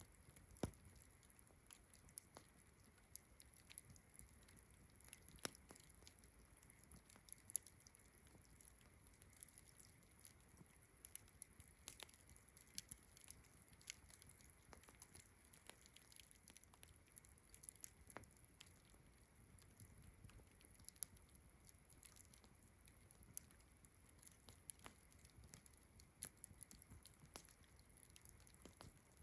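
Campfire crackling, with irregular sharp pops and snaps, over a steady high-pitched chirring of crickets.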